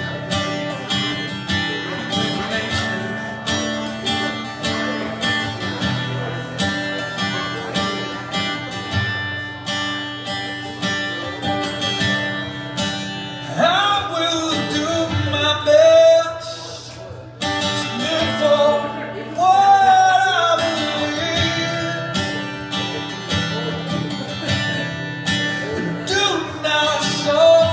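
A song with a strummed acoustic guitar running throughout, and a voice singing a few drawn-out lines without clear words about halfway through and again near the end.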